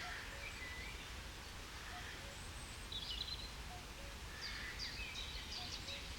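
Birdsong in a reed-fringed fen. Small songbirds give short high phrases, busier in the second half, while a distant cuckoo faintly repeats its two-note call. A low steady rumble of wind or ambience runs underneath.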